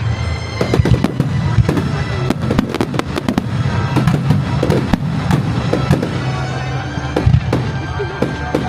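Aerial fireworks going off in quick succession, a dense string of bangs and crackles, with music playing underneath.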